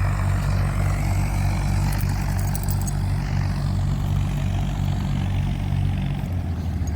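Helicopter running up on the ground: a steady low drone of engine and rotor as it gets its speed up before take-off, the low pitch shifting slightly about six seconds in.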